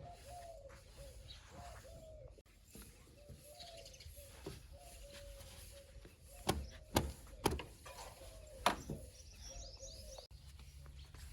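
A bird calling over and over in short, arched notes. Several sharp clicks or knocks come in the middle.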